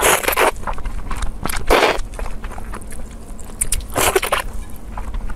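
A person eating hot and sour sweet-potato noodles, with loud noisy slurps about every two seconds.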